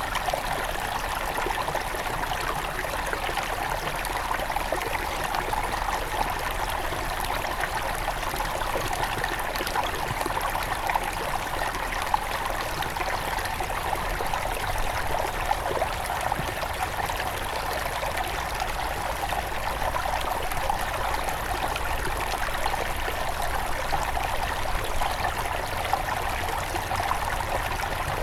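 Small river flowing steadily over stones, a constant rush with light splashing and trickling.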